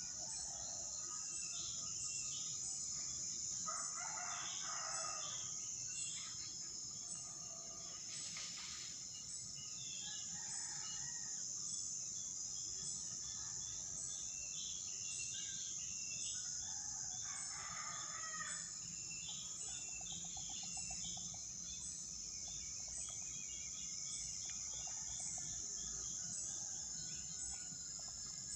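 Outdoor rural ambience: a steady high insect drone throughout, with a rooster crowing twice, a few seconds in and again just past the middle, and small birds chirping.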